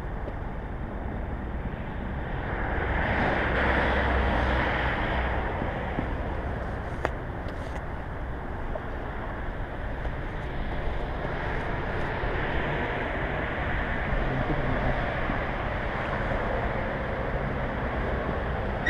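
2001 Suzuki SV650's 645 cc V-twin with a Laser aftermarket exhaust, running on the move under steady wind noise on the microphone. It swells louder a few seconds in.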